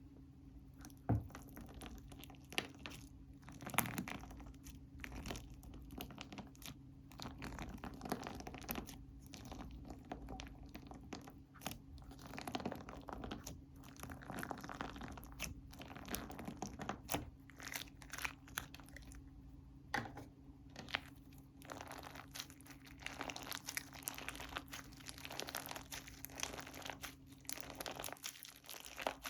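Slime being worked by hand: a steady run of small clicks, pops and crackles, with a few louder snaps about a second in and near four seconds.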